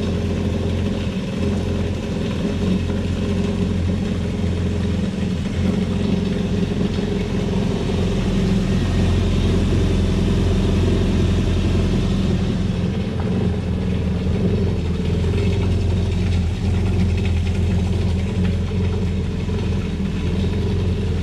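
Yamaha jet ski engine idling steadily out of the water while a garden hose on the flush adapter runs fresh water through its cooling passages.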